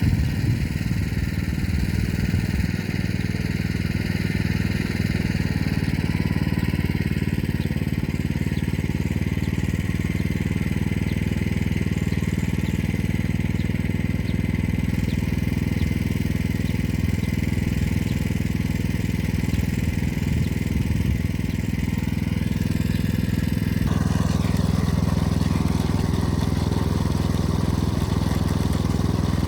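Motor Sich walk-behind tractor engine running steadily while it pulls an arrow-type hiller along the potato rows, with a slight change in its tone a little past three-quarters of the way through.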